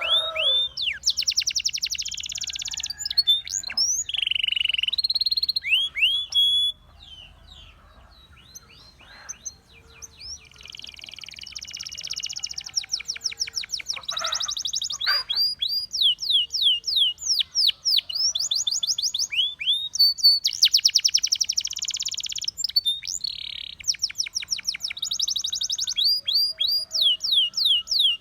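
Russian singing canary in song: fast buzzy trills alternating with runs of quick sweeping whistled notes, dropping to a quieter lull for a few seconds about seven seconds in before the song picks up again.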